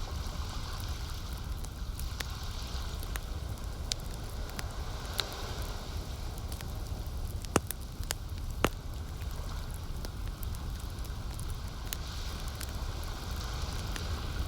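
Campfire crackling, with scattered sharp pops; the two loudest come about halfway through. Under it is a steady low rumble and the soft wash of lake water, swelling every few seconds.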